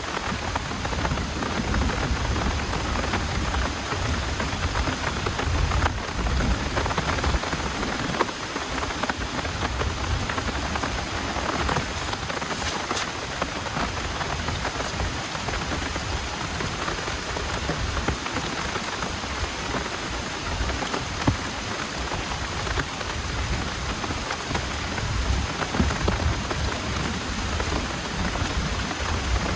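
Heavy rain falling steadily in a dense, even hiss, with a low rumble coming and going underneath.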